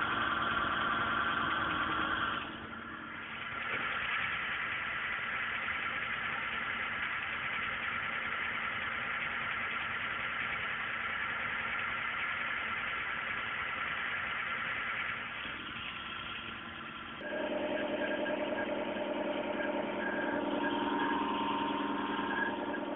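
Car engine idling, a steady running sound with a low drone, which changes abruptly twice: about two seconds in and again near the end, when it grows fuller and louder.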